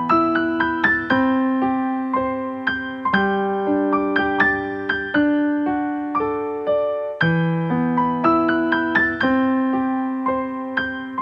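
Background music played on a piano or electric piano: a gentle melody of struck notes over held chords, each note fading after it is played.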